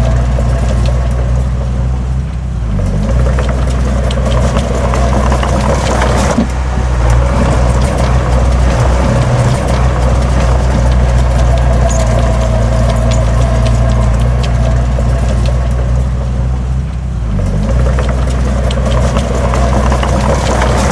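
Heavy earthmoving machine's diesel engine running steadily and loud, its note dipping briefly about two and a half seconds in and again near the end.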